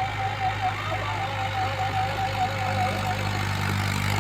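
Mahindra tractor's diesel engine running steadily under a rotavator, with a wavering higher tone over it.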